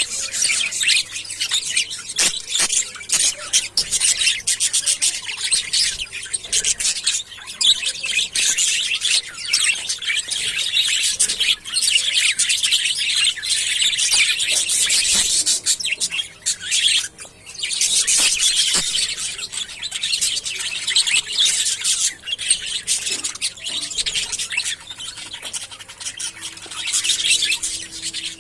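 Many budgerigars chattering at once, a dense, continuous mix of chirps, warbles and squawks, with a couple of brief lulls.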